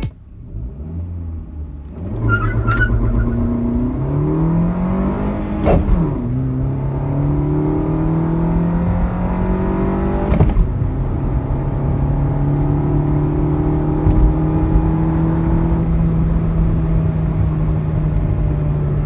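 Maruti Baleno petrol engine accelerating hard from a standstill. Its pitch climbs through the gears, with two gear changes about six and ten seconds in, and settles to a steady note near the end.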